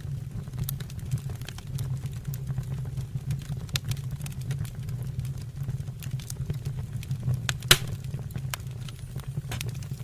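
Wood fire burning in a fireplace: a steady low rumble of flames with scattered crackles and pops, one sharp pop standing out near the end.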